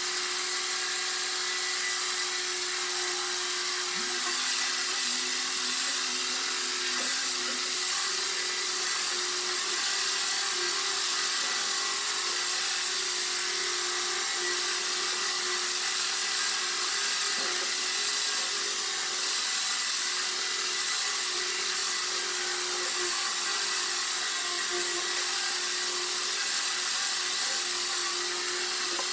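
Power sander running steadily against a car body panel, a constant whirring hiss with a steady hum, as the body is sanded before painting.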